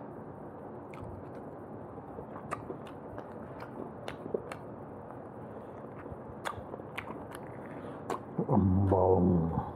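Close-miked eating of roast chicken by hand: wet chewing, lip smacks and mouth clicks at irregular intervals. Near the end a man's voice makes a short, louder hum.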